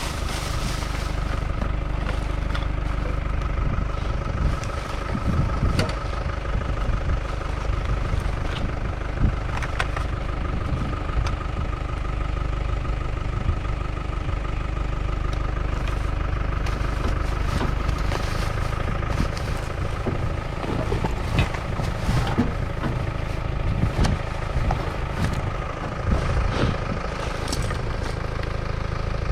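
Vehicle engine running with a steady low rumble while driving, with scattered light rattles and clicks throughout.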